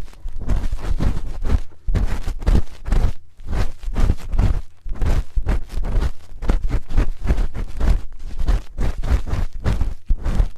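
A spoon scraping and rubbing close against the microphone for ASMR ear cleaning: a dense, irregular run of quick scratchy strokes with a deep rumble from the handling.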